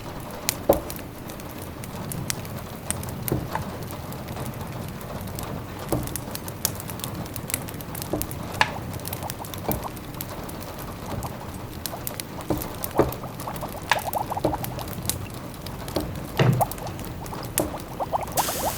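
Log fire crackling in a fireplace: irregular sharp pops and snaps over a soft steady hiss.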